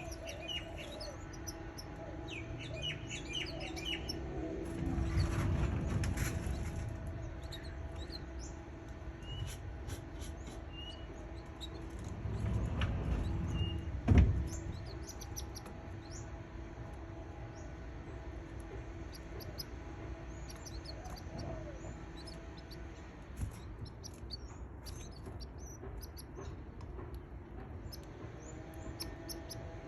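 Canaries chirping: short, high chirps scattered throughout, over a steady low hum. Two stretches of low rumbling noise and a single sharp knock about halfway through, the loudest sound.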